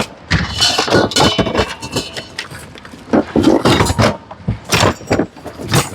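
Hard household objects knocking and clinking together in quick irregular clatter as items are handled and sorted in a bin.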